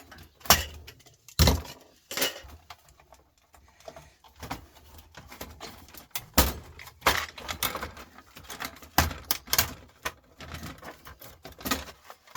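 Irregular clicks, knocks and light clatter of hard plastic and metal parts from the electronics being handled and pried apart.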